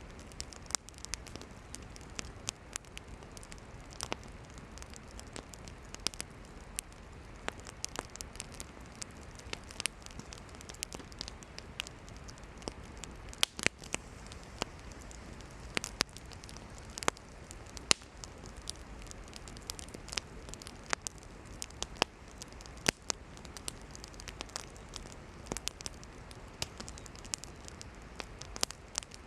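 Campfire of burning firewood crackling and popping irregularly over a steady low hiss of flames, with sharper, louder pops every second or two.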